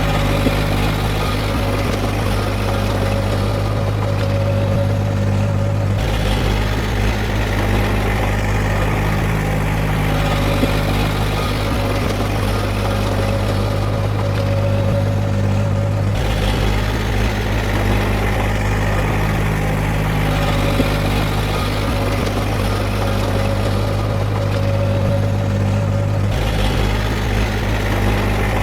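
Heavy diesel engine of earthmoving machinery running steadily, with its tone shifting abruptly about every ten seconds.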